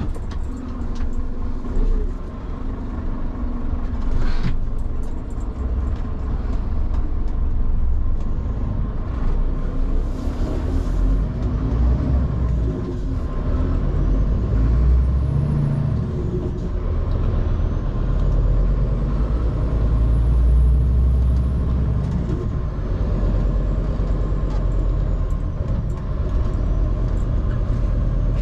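Scania P360 XT skip lorry driving: the engine and running gear make a steady low rumble that swells and eases with the throttle. Short air hisses come about four seconds in and again around ten to eleven seconds in.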